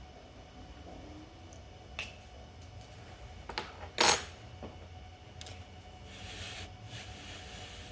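A few sharp clicks and knocks, the loudest about four seconds in, then a short hiss near the end.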